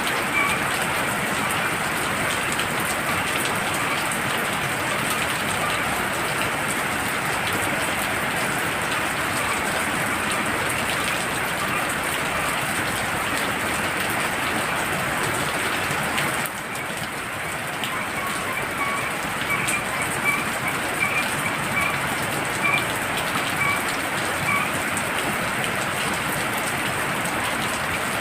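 Heavy rain falling steadily. For several seconds past the middle, a frog calls in a run of short, evenly repeated notes, about two a second.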